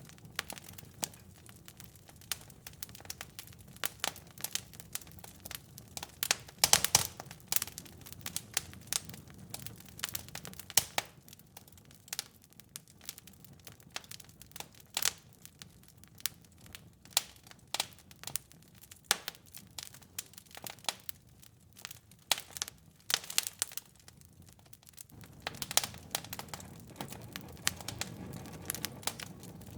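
Fireplace fire crackling: irregular sharp pops and snaps over a low steady rumble, with a quick cluster of louder pops about seven seconds in. The rumble grows a little stronger near the end.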